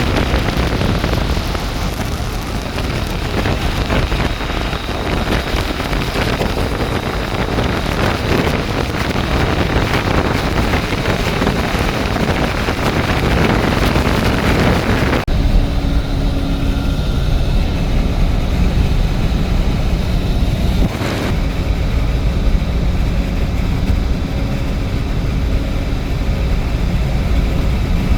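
Steady rushing noise of wind and rain with a low rumble. About fifteen seconds in it switches abruptly to a deeper, duller rumble.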